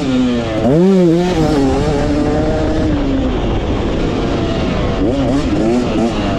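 Dirt bike engine revving up and down as it is ridden hard around a motocross track, its pitch swinging with the throttle and a quick sharp rise and fall about a second in.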